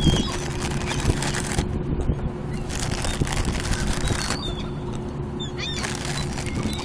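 Seagulls calling in short, high squawks over a steady low rumble and hum, with scattered sharp taps and clicks.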